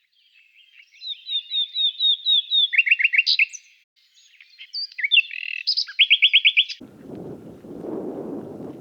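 A songbird singing two quick phrases of repeated high chirps and trills, separated by a short pause. The song cuts off abruptly about seven seconds in, and a steady low rushing noise takes over.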